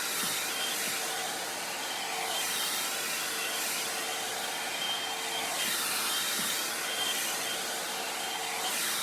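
2-in-1 hair dryer and volumizer brush running on its high setting: a steady rush of blown air with a faint motor hum underneath.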